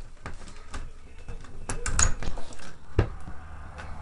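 A door being opened: a series of clicks and knocks, the sharpest about three seconds in. A steady rushing noise then sets in.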